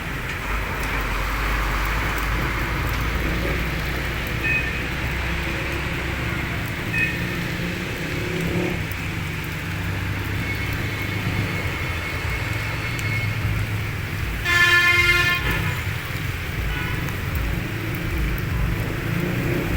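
Busy street traffic in heavy rain: a steady wash of vehicle and rain noise, with a couple of short high beeps and a loud vehicle horn blast lasting about a second, about fifteen seconds in.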